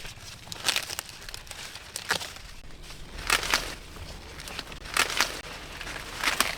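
Dry corn plants rustling and crackling, with short sharp crackling bursts about every second and a half, as ears of corn are snapped off the stalks.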